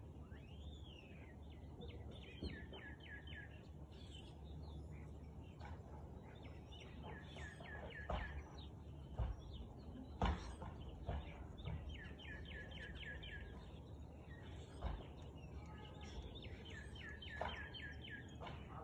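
A songbird singing short phrases of repeated downslurred whistles, four phrases about five seconds apart, over a faint background hum. A few dull knocks fall between the phrases.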